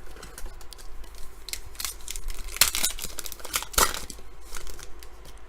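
Trading cards being handled and slid one by one off a stack, card stock scraping and flicking against card. Two sharper snaps come about two and a half and four seconds in.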